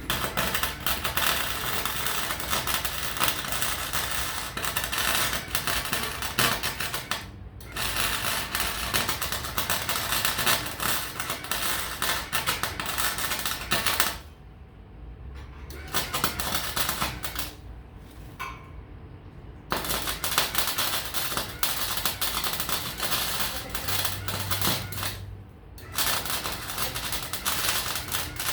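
Welding arc crackling in several runs of a few seconds each, stopping and restarting between welds as pieces of scrap steel are joined.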